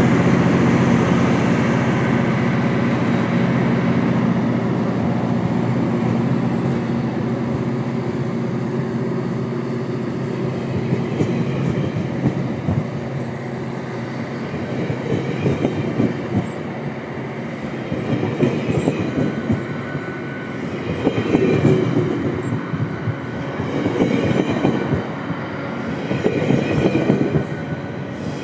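A departing GO Transit commuter train rolling past, pulled by an MP40PH diesel locomotive. The locomotive's steady engine tone fades over the first few seconds, leaving the coaches' wheels rumbling and clacking on the rails in swells that rise and fall every few seconds.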